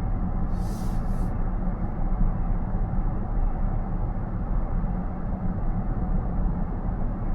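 Steady road and tyre noise of a moving car, heard from inside the cabin, with a brief high hiss about a second in.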